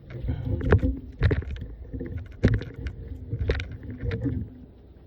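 Wooden beehive boxes and frames being shifted and handled: about four sharp knocks over a steady low hum of bees buzzing.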